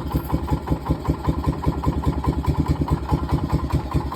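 1971 Honda SL70's single-cylinder four-stroke engine idling steadily in a quick, even putter, cold, with its idle speed turned up a little.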